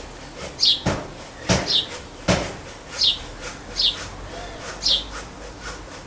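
A small songbird chirping over and over, a short falling note about every second. There are three sharp knocks in the first half.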